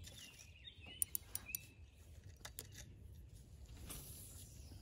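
A bird calling with a few short whistled notes in the first second and a half, over faint outdoor ambience. Several sharp clicks sound around the middle.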